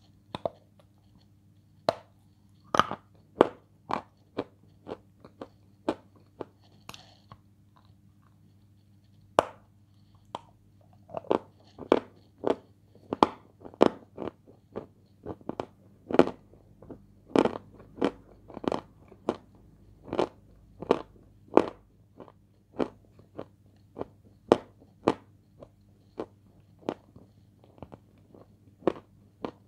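Close-up crunching as dry edible clay (Turkestan light) is bitten and chewed: sharp, irregular crunches, sparse at first and coming about two a second from about eleven seconds in, over a faint steady hum.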